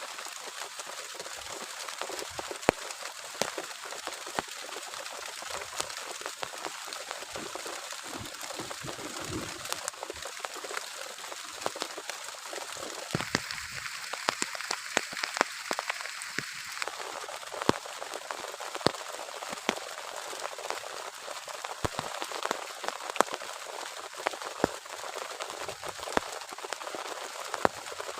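Heavy rain falling steadily, with many sharp drop hits landing on a surface close by. It briefly grows heavier and brighter about halfway through.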